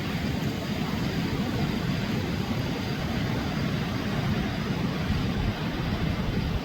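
Flood-swollen river rushing past, a steady low rumble of water without let-up.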